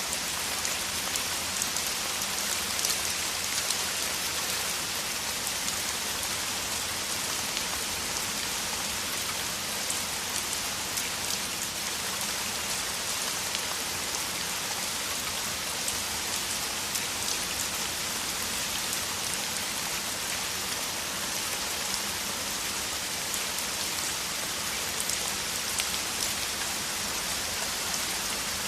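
Heavy rain falling steadily: an even hiss of many drops, with single drops ticking through it.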